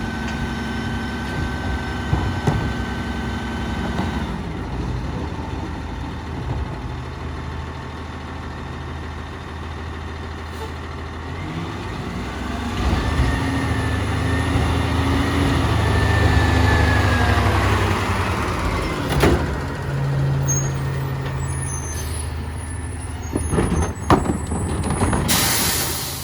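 Peterbilt 348 garbage truck's diesel engine running steadily, then revving up for several seconds midway before settling back, as on a rear-loader's hydraulic packing cycle. A burst of air hiss comes near the end.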